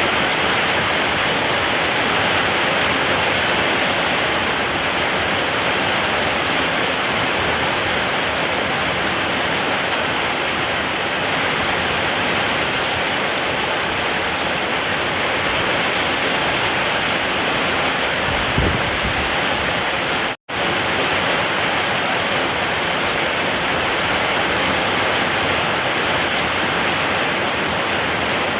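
Steady heavy rain, a dense even hiss of drops. Shortly before two-thirds of the way through there is a soft low thump, and a moment later the sound cuts out completely for a split second before the rain resumes.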